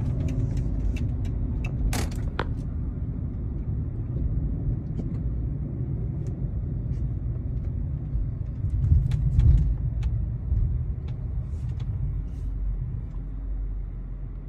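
Cars racing on a road: a steady low engine and road rumble that swells briefly about nine seconds in. There is a sharp knock about two seconds in.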